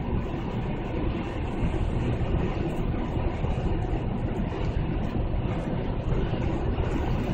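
Exhaust of a 2008 Chevrolet Tahoe V8 running through an aftermarket Magnaflow muffler, with the stock resonator kept: a steady, deep low rumble that grows a little louder about a second and a half in.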